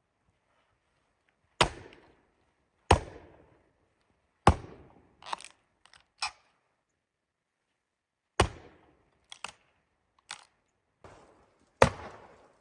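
An irregular series of about nine sharp, hard impacts, each with a short fading ring; the loudest comes about four and a half seconds in.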